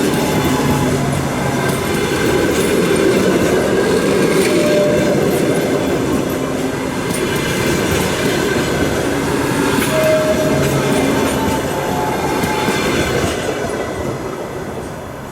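Passenger train rolling past on the rails with a steady clatter of wheels, and short squealing tones from the wheels now and then. The noise starts to fall away near the end.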